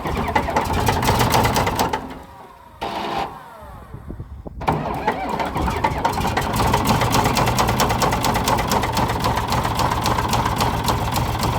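Komatsu D65E bulldozer's diesel engine cold-starting after sitting for two years. It fires and runs, sags to a quieter sound for about two seconds, then catches again about four and a half seconds in and runs steadily with a rapid knock, which the crew take for rod knock.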